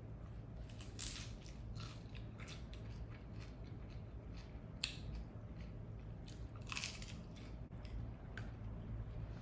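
Close-up crunching and chewing of a crisp fried tortilla tostada shell with salad, a series of irregular crunches with the sharpest about five seconds in.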